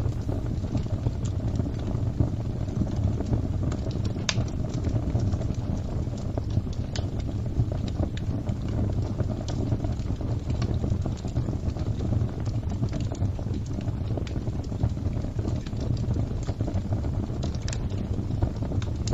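Wood fire crackling: a steady low noise of the flames with scattered sharp pops and snaps, a louder pop about four seconds in and another near the end.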